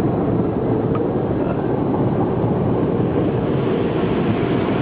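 Automatic car wash running, heard from inside the car's cabin: a steady rushing rumble of its water spray, brushes or blowers.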